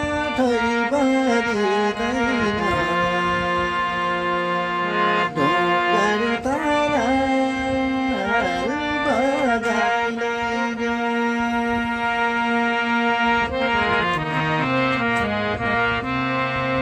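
Instrumental break in a Nepali thadi bhaka folk song: held chords under a melody line that slides and wavers, with no singing.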